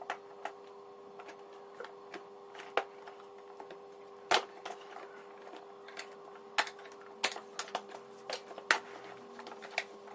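Scattered sharp clicks and knocks of a Toshiba vacuum cleaner's plastic housing being handled and pried apart, over a steady faint hum.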